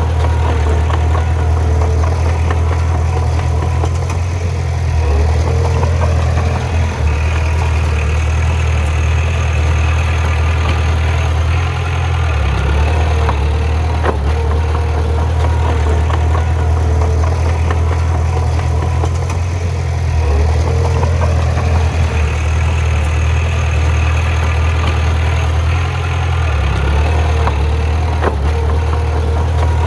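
Bulldozer's diesel engine running steadily with a deep note that shifts every six to seven seconds, with a few sharp clanks.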